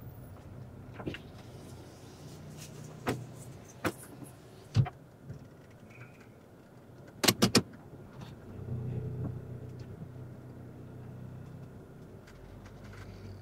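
Car cabin with the engine idling low while stopped, broken by a few sharp clicks and knocks, three in quick succession about seven seconds in. A deeper engine hum swells past the middle as another vehicle, a pickup truck, drives across in front.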